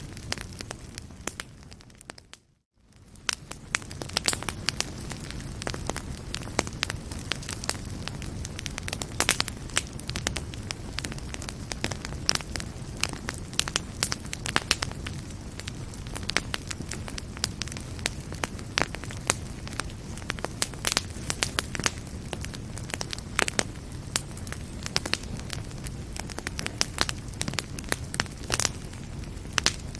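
Wood fire burning in a fireplace, crackling with frequent sharp pops. About two seconds in, the sound briefly fades almost to silence and then comes back.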